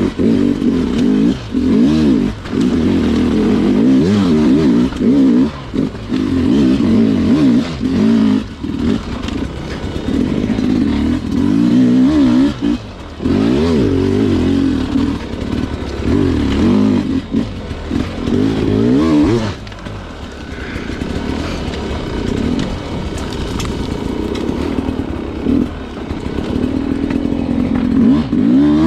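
Sherco two-stroke enduro dirt bike engine revving up and down in short bursts of throttle. It settles into a lower, quieter, steadier run for several seconds about two-thirds of the way through, then picks up again near the end.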